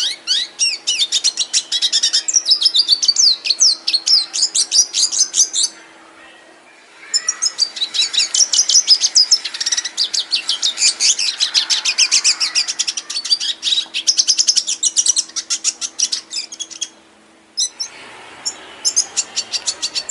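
Finch singing a long, fast song of rapid high trills and chirps in long phrases, with short breaks about six and seventeen seconds in. A faint steady hum underneath stops near the end.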